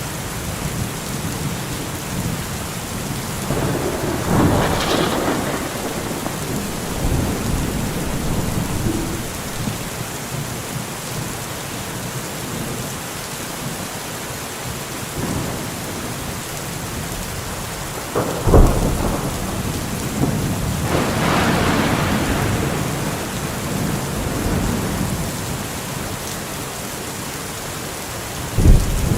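Steady rain falling during a thunderstorm, with rolling rumbles of thunder twice and two sharp, sudden thunder cracks, one about two-thirds of the way in and one at the very end.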